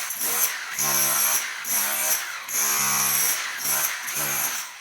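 Power tool motor running in about five short bursts with brief pauses between, each burst at a steady pitch.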